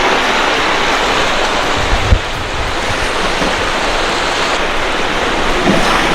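Rushing water of the fast-flowing Dihing River, a steady hiss, with a single low thump about two seconds in.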